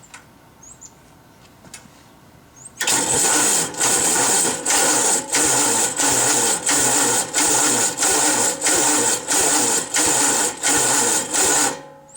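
1945 Gravely Model L's single-cylinder engine being cranked by its 6-volt electric starter, about three seconds in, with a loud whirring that rises and falls about one and a half times a second as each compression stroke is turned over, then stops suddenly near the end. The engine does not fire; the owner thinks the starter isn't spinning it fast enough.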